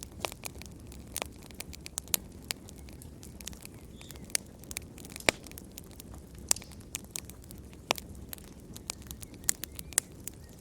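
Wood fire in a fireplace crackling: irregular sharp pops and snaps, a few louder than the rest, over a low steady rumble of the flames.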